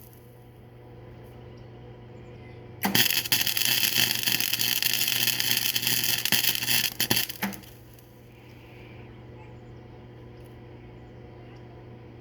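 Flux-core MIG welding arc crackling and spattering in one burst of about four and a half seconds, starting about three seconds in and stuttering out at the end, as short welds bridge a wide gap in thin painted steel pipe. A steady low hum runs under the quieter stretches either side.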